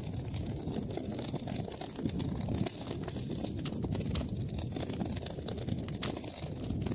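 Wood fire burning in an outdoor fireplace, with a steady low rumble of flame and constant crackling. One sharp pop about six seconds in.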